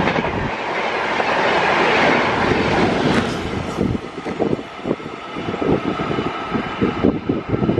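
Rajdhani Express passenger train passing close at speed: a dense rush of coaches over the track. About halfway through it gives way to a quieter, uneven clatter of wheels on rail as a locomotive-hauled train comes on.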